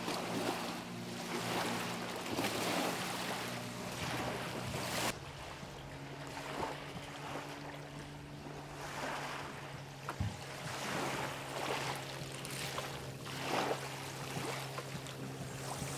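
Small waves washing on a sandy shore every second or two, over a steady low motor hum.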